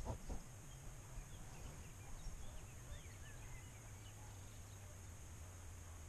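Faint chirps of small birds, many short rising and falling notes scattered through the first few seconds, over quiet open-air background with a little rustling at the very start.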